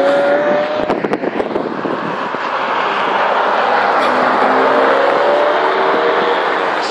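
Ferrari 599 GTB's V12 engine pulling away and passing close by, its note swelling to its loudest about five seconds in, with a few sharp crackles about a second in.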